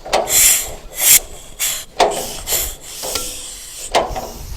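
1940 John Deere Model B two-cylinder engine turned over by hand at the flywheel with the ignition off and the compression petcocks open. It gives a series of hissing puffs, about two a second, with some rubbing. The engine is being primed, drawing fuel into the cylinders, not starting.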